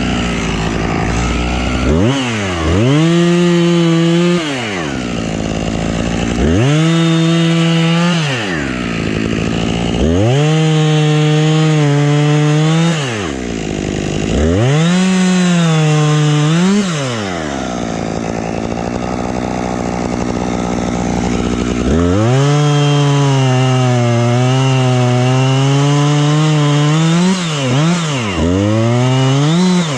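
Husqvarna two-stroke chainsaw revved to full throttle in about six bursts of a few seconds each, dropping back to idle between them. During the longer bursts the pitch sags slightly as the chain cuts into wood.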